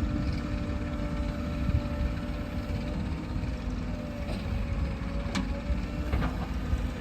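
Heavy diesel engine of earthmoving machinery running steadily, with a few sharp knocks in the second half.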